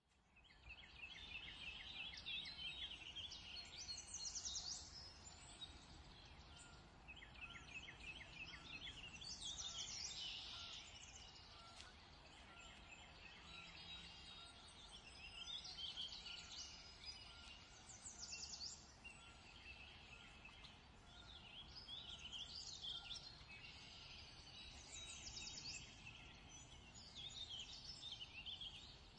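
Faint birdsong: several birds chirping and trilling in clusters every few seconds over a steady low background hiss.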